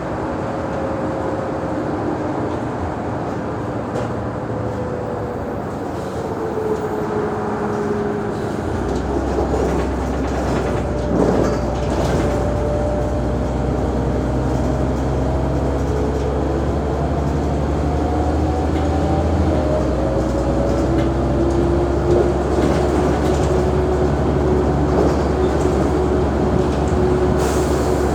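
Mercedes-Benz O345G articulated city bus running: a drivetrain whine falls in pitch over the first several seconds, then at about nine seconds the engine's low rumble steps up as it pulls harder, and the whine climbs again toward the end.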